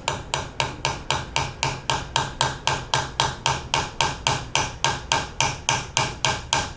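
Light, rapid hammer taps on metal, about four a second, driving a brake-pad retaining pin through a Brembo brake caliper to seat it.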